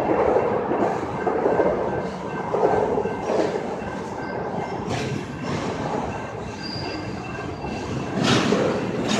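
A train running on its rails: a steady dense noise with a few faint high steady tones, getting louder about five seconds in and again near the end.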